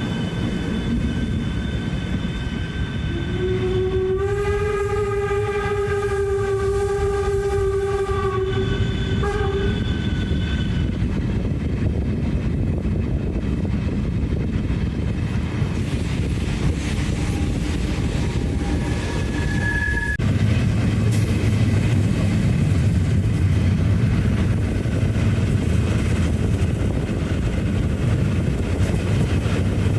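A rail vehicle's horn sounds one long held note for about six seconds, a few seconds in, over the steady low rumble of a train running. The rumble grows louder about twenty seconds in.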